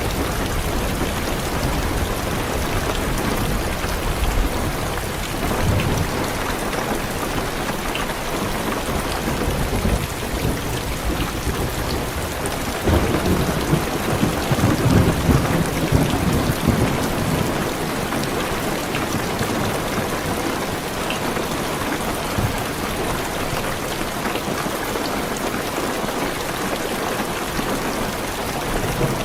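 Heavy rain falling on a car's roof and windows, a steady hiss, with thunder rumbling low for a few seconds about halfway through.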